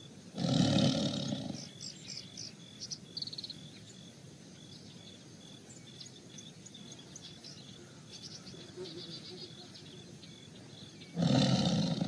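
Tiger roaring twice: a deep growling roar of about a second just after the start and another near the end. Faint bird chirps in the background between the two roars.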